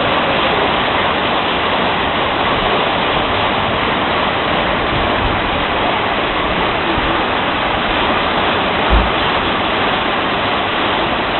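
Heavy storm rain pouring down, a loud, steady, even hiss. A short low thump about nine seconds in.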